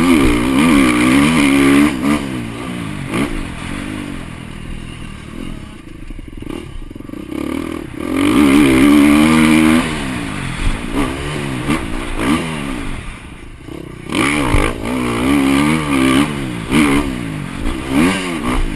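KTM 350 four-stroke single-cylinder motocross bike engine heard from the rider's helmet, revving up hard and dropping off again and again as the throttle is opened and closed around the track, with the loudest pulls about eight seconds in and again near the end.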